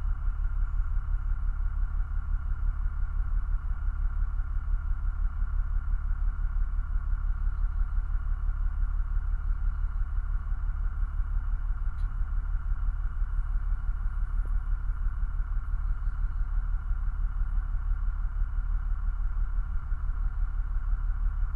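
A truck engine idling steadily: an even, low rumble that does not change.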